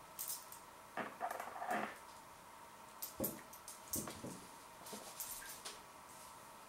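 Close mouth sounds of chewing a tough, gristly mouthful of minced beef: irregular wet, squishy bursts with a few sharp clicks, clustered in the first two seconds and again around three to six seconds in.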